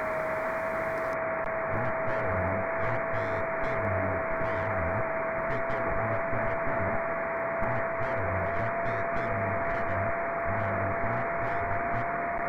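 Amateur radio transceiver receiving the RS-44 satellite downlink: steady receiver hiss with a single carrier whistle that creeps slightly upward in pitch, and faint muffled signal fragments underneath, as the satellite nears the end of its pass.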